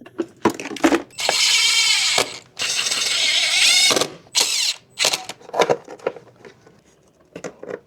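A small power tool running in two bursts, about one and one and a half seconds long, its pitch wavering, followed by several short clicks of parts being handled.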